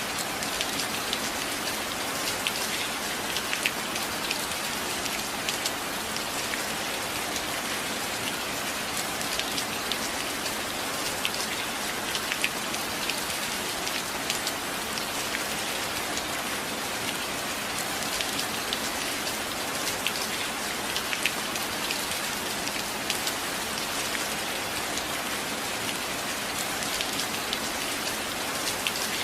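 Steady rain falling on a surface, an even hiss scattered with many sharp ticks of single drops landing close by.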